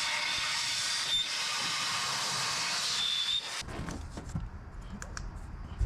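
A power tool running steadily with a hissing, scrubbing sound and a few brief high squeals, cutting off about three and a half seconds in; light clicks and handling knocks follow.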